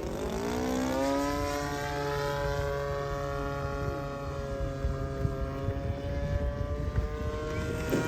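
The 20cc engine of a Seagull Ultimate RC model airplane running with its propeller, pitch dipping briefly at the start, then rising and holding steady at high revs.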